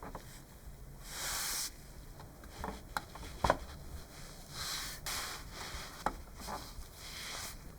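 Several short hissing bursts, each about half a second long, with a few sharp clicks and taps in between; the loudest click comes about three and a half seconds in.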